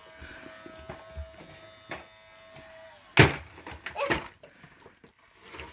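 Small toy vacuum cleaner's motor humming steadily for about three seconds, then cutting off, followed by a sharp knock and two softer knocks.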